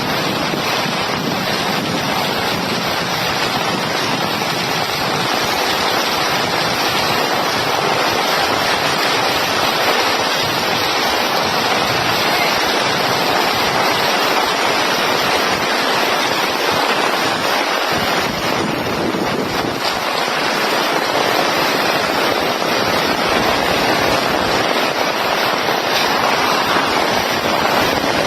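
Steady, loud rushing of surf and wind, with uneven low rumbling running through it.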